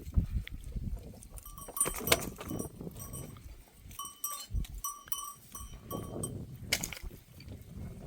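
Metal bells on goats and sheep clinking again and again as the flock moves, among rustling and knocks.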